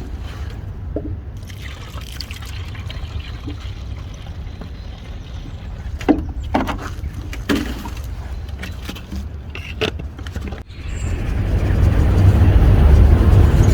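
Water trickling and pouring, with a few knocks of cleaning gear being handled and a steady low rumble underneath. About eleven seconds in, a louder steady rushing noise builds up and holds.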